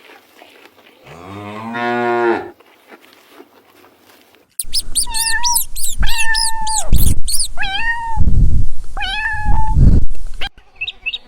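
A cow mooing once, a low call that grows louder before it stops. A few seconds later, a cat meowing several times in a row.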